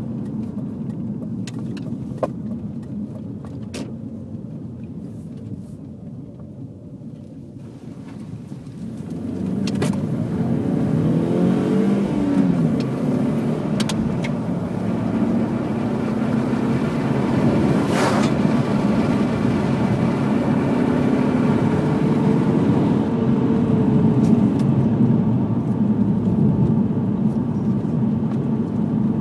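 BMW 318Ci's four-cylinder engine heard from inside the cabin on the move, over road noise. It is a low drone at first, then grows louder about a third of the way in, its pitch rising and dropping as the car accelerates and changes gear. There is one sharp click past the middle.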